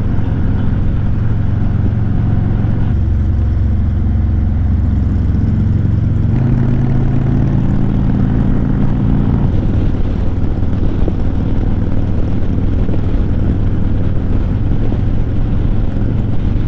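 Harley-Davidson V-twin motorcycle engine and exhaust running under way, a steady low rumble whose pitch shifts a few times as the revs change.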